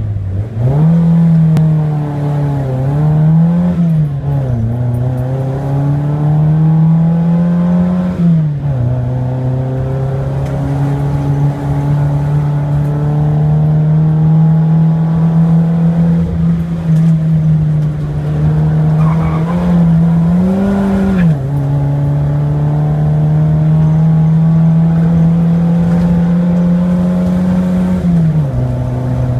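Simca 1000's rear-mounted four-cylinder engine driven hard uphill, heard from inside the car: the revs climb, then drop sharply at each gear change, several times, with long stretches held at high revs.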